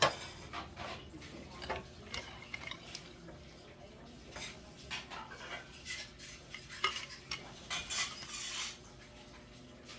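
Irregular light clinks, taps and scrapes of small hard items being handled and set down, with a longer rustling scrape about eight seconds in.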